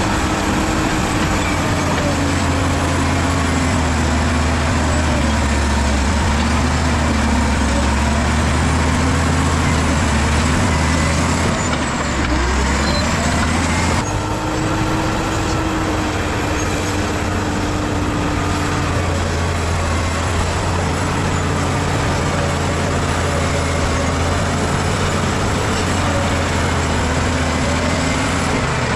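Bulldozer's diesel engine running steadily under load, its pitch rising and falling slightly. The sound changes abruptly about halfway through.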